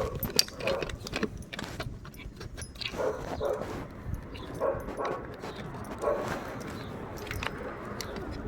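A dog barking repeatedly in short pairs of barks, mixed with sharp clicks and jangling rattles of keys or small parts being handled.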